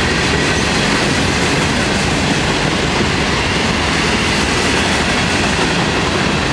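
Florida East Coast Railway freight cars, steel gondolas and a covered hopper, rolling past: a steady, loud rumble and clatter of steel wheels on the rails.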